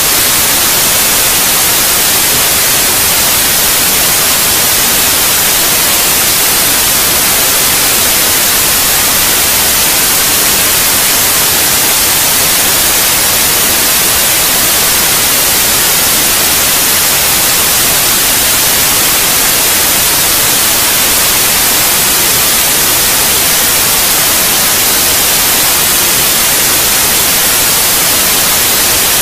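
Steady white noise: an even, loud hiss, strongest in the high treble, that does not change.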